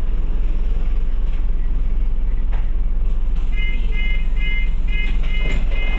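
Scania OmniCity bus engine running steadily, heard from inside the bus. Over it, from just past halfway, comes a run of short, even electronic beeps, about three a second, stopping near the end.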